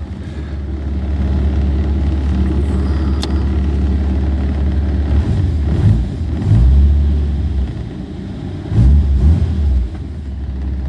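1948 Plymouth Special Deluxe's 218 flathead six idling steadily and evenly, running smoothly on newly replaced distributor bushings and corrected ignition timing. The engine sound swells louder briefly twice, once past the middle and once near the end.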